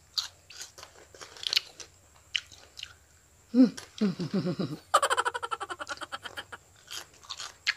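Close-miked crunching and chewing of crisp salad lettuce and raw vegetables, in irregular crackly bites. About halfway a short hummed voice sound of enjoyment breaks in, then the chewing resumes.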